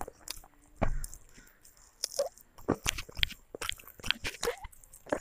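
Close-miked eating: a child biting and chewing broiler chicken and rice, with irregular wet chewing clicks and smacks.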